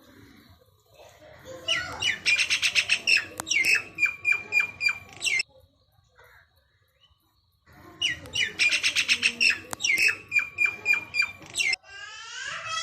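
Common (Indian) myna calling: two bouts of rapid, repeated chattering notes, each about four seconds long, with a short pause between. Near the end a different, drawn-out call with falling pitch begins.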